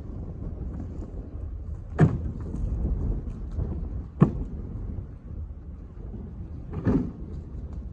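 Three heavy knocks a couple of seconds apart over a steady low rumble of wind on the microphone.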